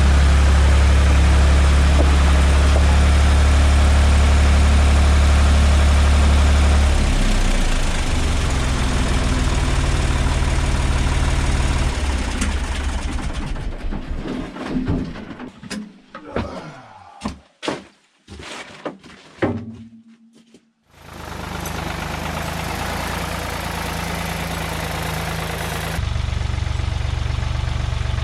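Farm tractor engine running steadily and shifting speed a few times, then sputtering and dying away about twenty seconds in. A steady engine-like sound starts again soon after.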